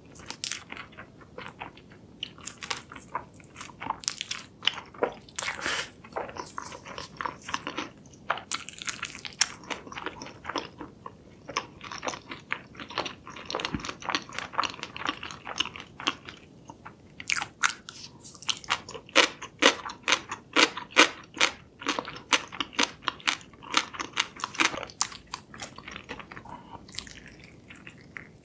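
Close-miked chewing and crunching of crispy, sauce-glazed spicy fried chicken: a dense run of sharp crunches with wet mouth sounds, coming thickest a little past the middle.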